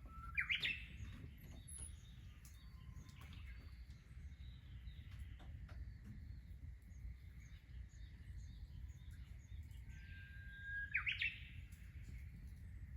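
A songbird singing twice, near the start and again about eleven seconds in: each phrase is a held whistle that breaks into a quick, higher flourish.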